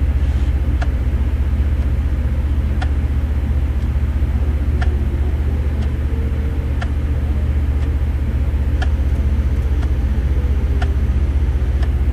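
A steady low engine drone, like an idling vehicle, with a faint tick about every two seconds.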